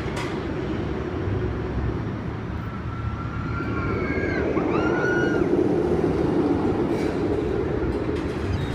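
Amusement ride car rolling along its track with a steady low rumble that grows louder about halfway through. A few short high tones rise and fall over it about three to five seconds in.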